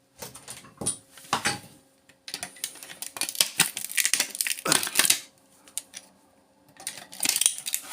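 Quick runs of clicks and crackles from the plastic case, circuit board and transformer of a power adapter being handled and pulled apart for its copper, busiest in the middle and again near the end.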